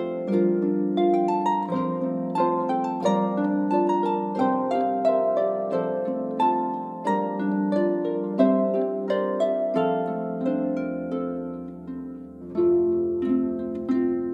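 Background music: a harp playing a flowing melody of plucked notes over chords, with a short lull near the end before a new phrase begins.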